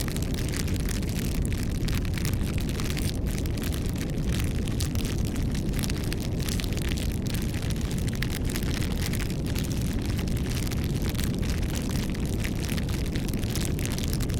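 Wood campfire burning, with a steady low rush of flame and frequent sharp crackles and pops throughout.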